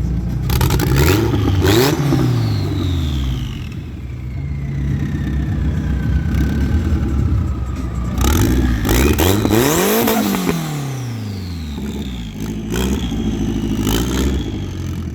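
A car engine revved several times, its pitch climbing and falling, with the biggest rev about ten seconds in. A high whine dies away slowly after the first rev.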